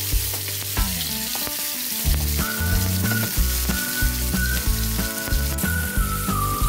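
Oil sizzling as boiled baby potatoes fry in a non-stick pan, with light clicks of a wooden spatula turning them. Background music plays underneath.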